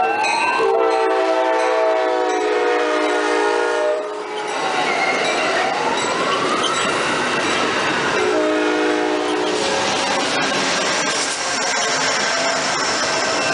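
Amtrak passenger train passing close by, horn sounding a long blast and then a shorter one about 8 s in. Under and after the horn come the rush and clatter of bilevel Superliner coaches going by, which grow louder near the end as the trailing locomotive passes.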